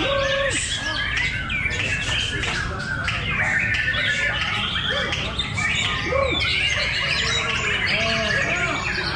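Several caged songbirds singing at once: a dense, unbroken tangle of overlapping chirps, trills and whistled phrases.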